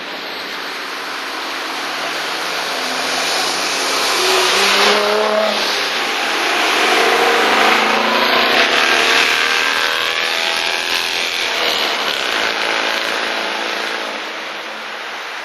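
Classic cars driving past one after another, engines accelerating up the hill. Two passes swell loudest, about four seconds in and again around eight seconds, the engine note rising as each climbs.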